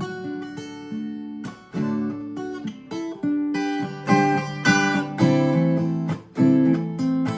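Acoustic guitar strumming chords in an instrumental passage, a strong strum about every half second to a second with the chords ringing between.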